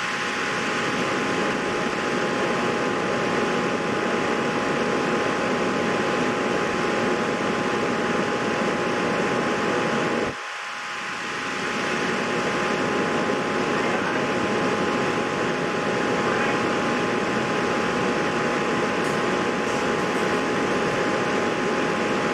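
Steady fan or air-conditioner noise with a faint constant whine. It dips briefly about ten seconds in, then builds back up.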